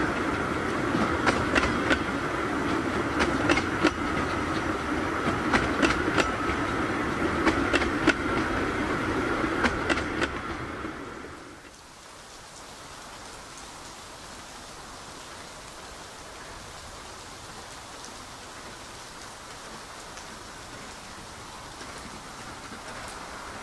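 15-inch-gauge Bure Valley Railway passenger coaches rolling past, a steady rumble with the wheels clicking over rail joints. About eleven seconds in it cuts to a much quieter, even hiss.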